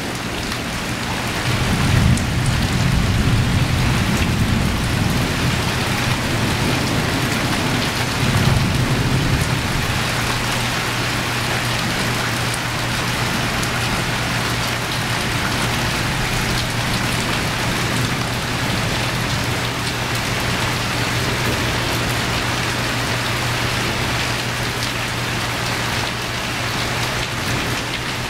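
Heavy rain pouring down steadily in a thunderstorm. Thunder rumbles low from about a second and a half in until about ten seconds in, loudest around two and eight seconds in.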